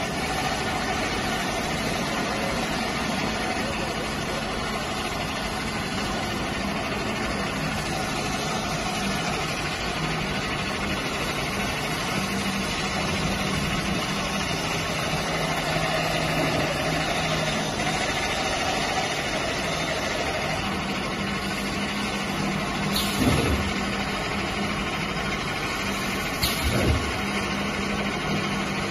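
Plastic pipe perforating machine running with a steady mechanical hum. Two short knocks come near the end.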